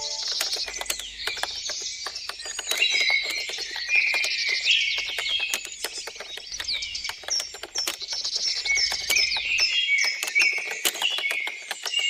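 Many birds chirping and singing at once: a dense chorus of quick, high, overlapping calls, with sharp clicks scattered through it.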